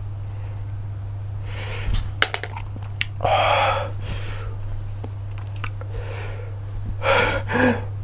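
Close-miked eating of cockles: a few sharp clicks of shells about two to three seconds in, then two stretches of loud mouth noise and breathing, the second near the end, over a steady low hum.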